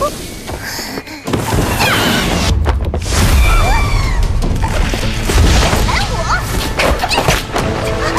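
Dramatic background music mixed with sound effects of crashes, booms and thuds, with short cries from a crowd scattering.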